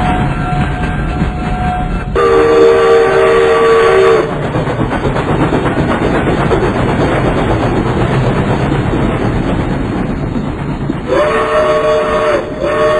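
Train running with a steady rumble of wheels on track, sounding its multi-tone whistle: one blast of about two seconds a couple of seconds in, and another near the end that breaks off briefly and starts again.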